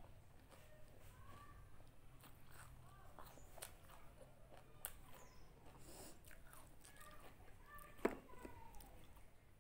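Faint chewing and crunching of pani puri, with scattered small clicks. One sharp crack about eight seconds in, as a crisp puri shell is picked up.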